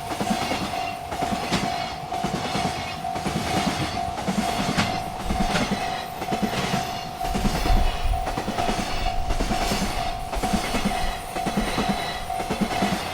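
Freight train rolling past a railroad crossing: a steady rumble with regular clicks about two a second, over a steady ringing tone that runs throughout.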